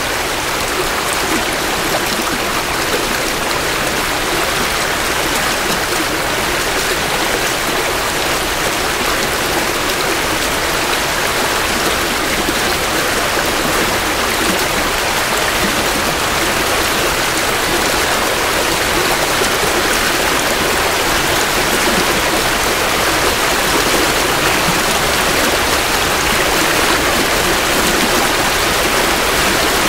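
Creek water flowing and splashing steadily over rocks, a constant rushing babble heard close up.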